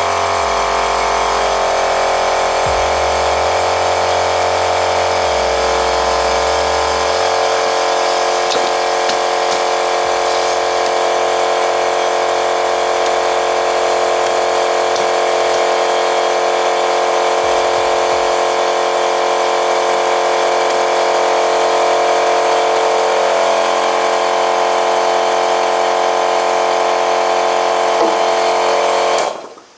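Electric air compressor running steadily while inflating a tubeless scooter tyre, then cutting off abruptly near the end.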